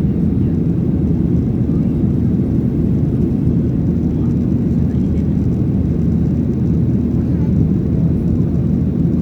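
Boeing 737-800's CFM56-7B engines at high takeoff power, heard from inside the cabin as a loud, steady low rumble with no change in pitch.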